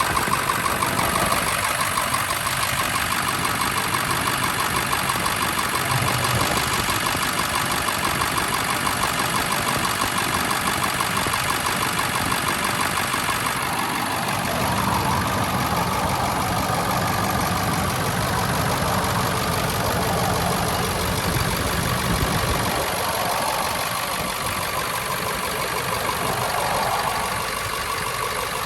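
A Ford 7.3L Powerstroke V8 turbodiesel engine running steadily at idle, with an even rapid beat.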